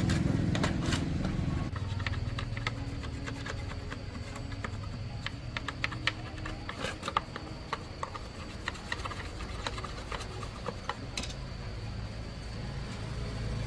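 Motorcycle engine running, dropping away about two seconds in. Then scattered light clicks and taps of handwork go on over a faint steady high whine and a low hum.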